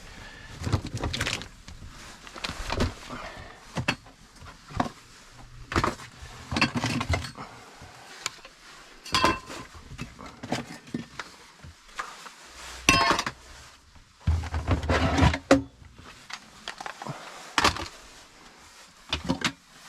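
Irregular clunks, knocks and metallic clinks of objects and hand tools being picked up, moved and set down, a dozen or so separate impacts, some ringing briefly.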